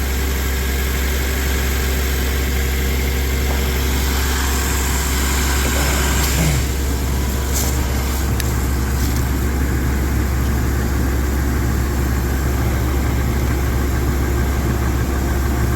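2004 Honda Accord engine idling steadily, running rough on one misfiring cylinder that the owner has traced as the problem and suspects is down to a bad ignition coil. A few light clicks come around the middle.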